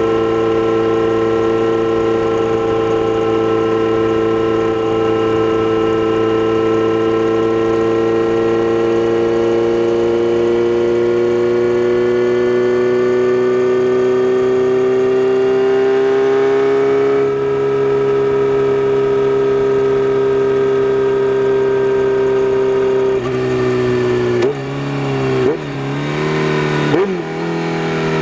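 Kawasaki Z900RS inline-four running through a Holeshot Lextek header, heard from a microphone under the seat while riding. It cruises with the engine pitch climbing slowly, holds steady, then drops off near the end with three quick throttle blips.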